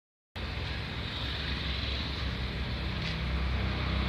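Strong wind buffeting the microphone: a steady rushing noise with a low rumble underneath.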